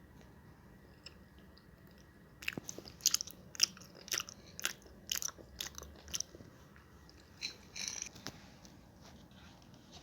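Crunchy biting and chewing: an irregular run of sharp crunches that starts about two and a half seconds in.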